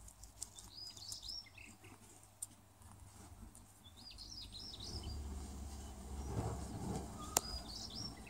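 Small songbirds chirping in three short bouts of quick high notes. A sharp click comes about seven seconds in, louder than the rest.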